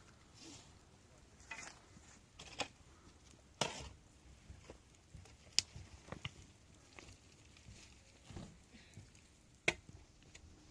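Scattered light knocks, clicks and scrapes, irregular and about a second or two apart, with a sharper click about two thirds of the way in.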